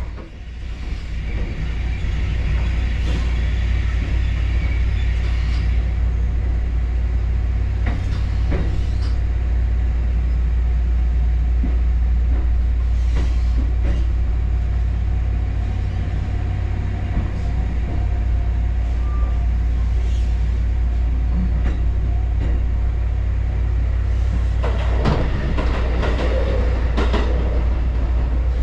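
Kotoden electric train running: a steady low rumble with occasional short knocks from the running gear.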